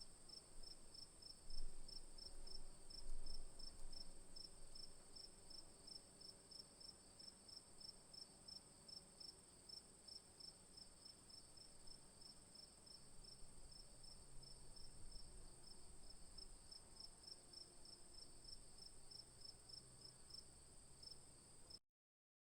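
Insects chirping faintly: one steady high trill, and a second, slightly lower call pulsing about three times a second. There are a few soft low thumps near the start, and all sound cuts off abruptly just before the end.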